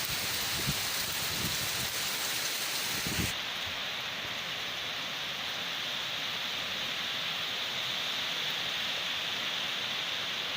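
Steady rain hiss, with a few low thuds in the first three seconds. About three seconds in, the sound turns suddenly duller as its highest hiss drops away, then goes on evenly.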